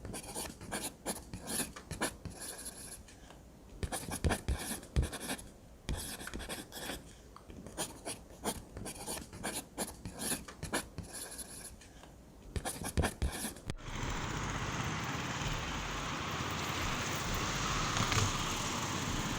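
Scratching and rustling of objects being handled, with scattered clicks and light knocks. About two-thirds of the way through this gives way to a steady hiss.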